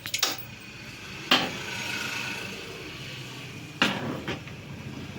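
Metal motorcycle engine parts clinking and knocking as a part is fitted by hand: a few sharp clinks near the start, about a second in and near the end, with a faint steady hiss between.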